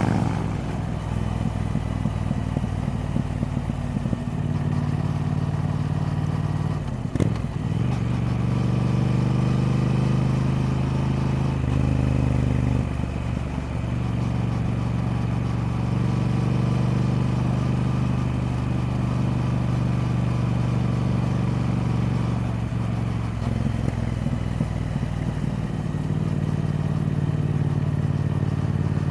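Triumph Speed Twin's parallel-twin engine running steadily, its note stepping between different engine speeds several times. There is a sharp click about seven seconds in.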